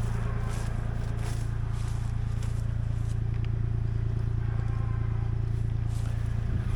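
Kubota L2501 compact tractor's diesel engine running steadily, with a few short, sharp noises over it in the first second or so.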